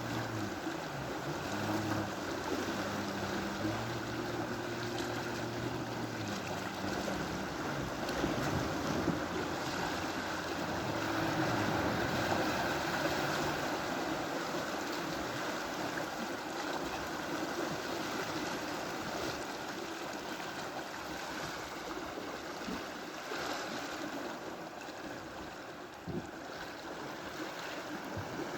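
Sea waves washing onto the shore, with a low motor hum that shifts in pitch during roughly the first half and then fades out.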